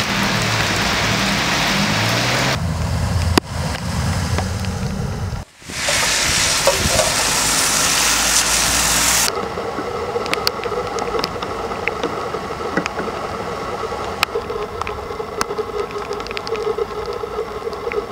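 Rushing floodwater and heavy rain, shot in several short clips that change abruptly a few times. In the second half, sharp patter and ticks sit over a steady low hum.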